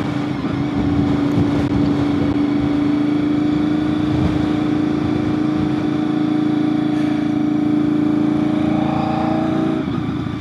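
2001 Honda VFR800FI Interceptor's V4 engine running steadily while riding, with wind and road noise over it. The engine note changes and eases off near the end.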